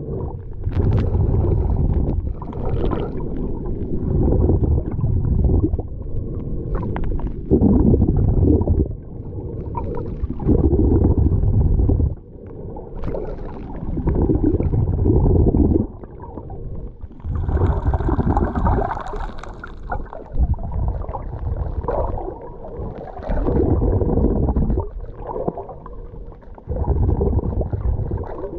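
Seawater sloshing and gurgling around the microphone, heavy and muffled, surging and dropping away every second or two, with a brief brighter splash about two-thirds of the way through.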